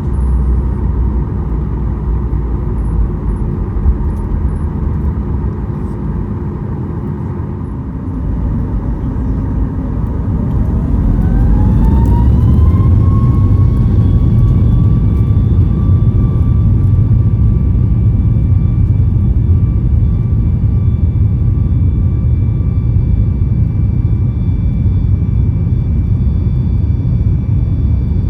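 Boeing 737 MAX's CFM LEAP-1B turbofan engines heard from inside the cabin: a steady low idle hum, then about nine seconds in a whine that rises in pitch over a few seconds as the engines spool up to take-off thrust. After that they run loud and steady, with the whine held, through the take-off roll.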